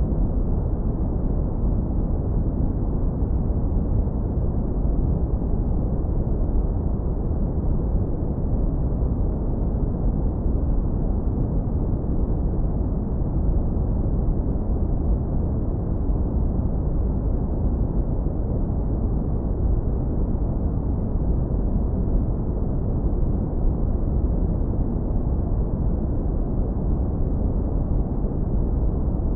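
Synthesized brown noise, hard low-pass filtered: a steady, deep, even rumble with its weight in the lowest bass and nothing above it, unchanging throughout.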